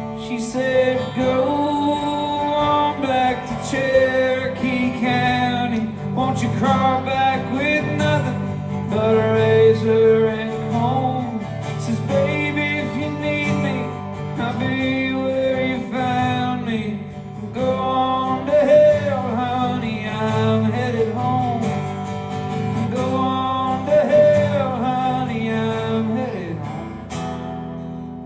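Live acoustic country music: acoustic guitar with a wavering melody line over it in the song's closing passage. It dies away near the end.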